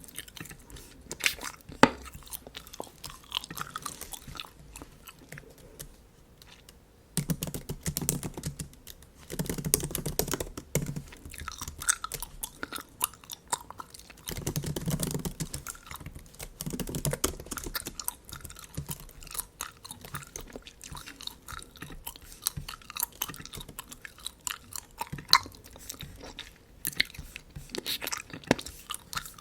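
Bubble gum being chewed close to the microphone, with scattered sharp clicks and several denser spells of chewing.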